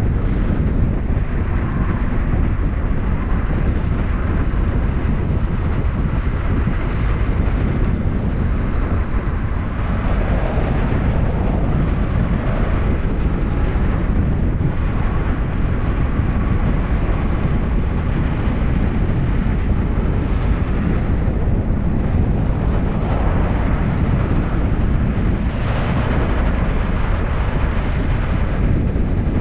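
Motorcycle riding at road speed, with its engine running steadily under heavy wind noise on the microphone.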